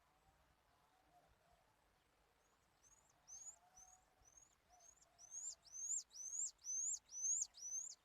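A songbird singing a run of sharp, high whistled notes, each rising then dropping steeply, repeated about two times a second. It starts about two and a half seconds in and grows louder.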